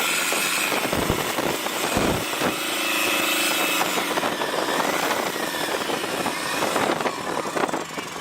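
Forklift engine running under load as the machine is driven around, with two low thuds about one and two seconds in.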